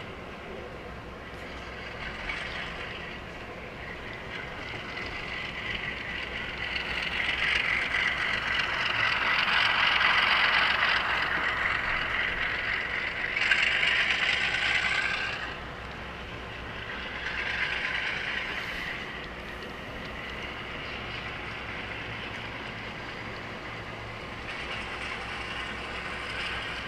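HO scale model train rolling along the layout track: a steady wheel-on-rail rolling noise that builds as it comes close, is loudest around ten to fourteen seconds in, drops off suddenly, then swells again briefly a few seconds later.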